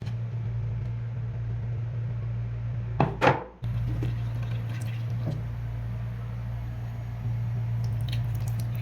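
Xiaomi Mijia Mop P robot vacuum running with a steady motor hum. About three seconds in comes a short, loud clatter, after which the hum carries on.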